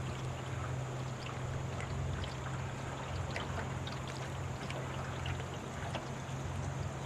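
Boat motor running at a steady drone over water noise, with scattered small ticks and splashes.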